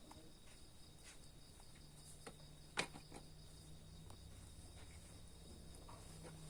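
Faint, steady insect chirring, typical of crickets, with a few scattered soft clicks; the sharpest click comes about three seconds in.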